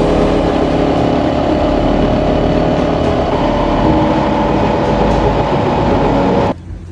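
Motorcycle running at road speed, engine and wind noise together as a loud, steady rumble that cuts off suddenly near the end.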